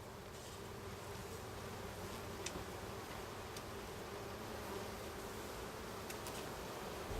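Honeybee colony buzzing steadily around an opened hive during a frame inspection, with a few faint clicks.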